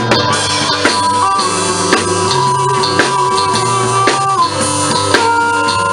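Live blues band playing an instrumental passage: a drum kit strikes about once a second under long held lead notes that bend in pitch.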